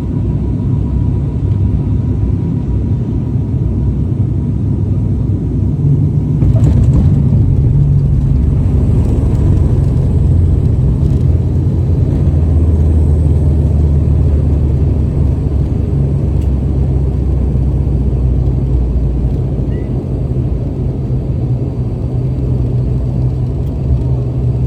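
A loud, steady low rumble with a deep hum, a little stronger from about six seconds in.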